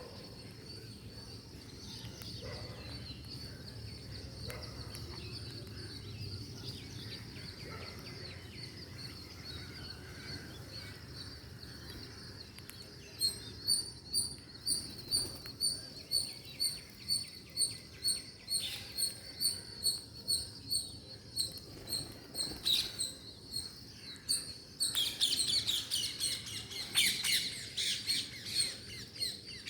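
Ring-necked parakeets calling: a faint steady background at first, then from about halfway repeated short, high chirps about two a second, turning near the end into denser, overlapping chattering calls.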